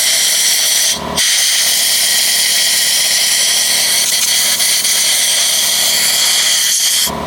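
A blower or air gun blasting air to clear sand out of a dirt bike's sticking throttle. It is a loud, steady rush of air with a short break about a second in, and a motor hum shows in the break and again after the air stops near the end.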